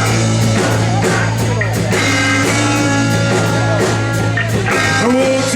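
Live rock-and-roll band playing an instrumental intro on electric guitar, bass and drum kit, over a steadily held low bass note with regular drum hits.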